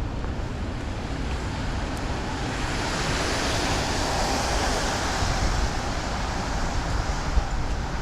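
Wet-road traffic noise: a vehicle's tyres hiss past on the rain-soaked road, swelling from a few seconds in and fading near the end, over wind buffeting the microphone.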